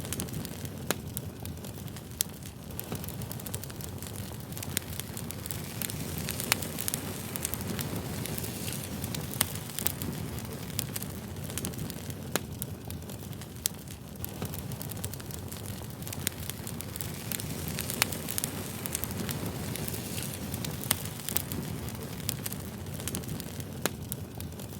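Wood campfire crackling: a steady low rush of burning with frequent irregular sharp pops and snaps.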